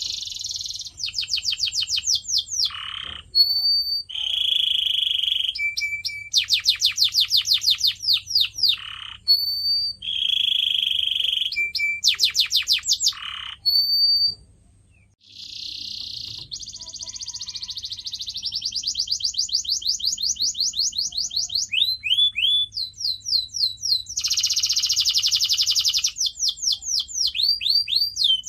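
Domestic canary singing. It strings together fast trills of rapidly repeated notes, some of them sweeping downward, with buzzy held notes and short high whistles between them. There is a brief pause about halfway through.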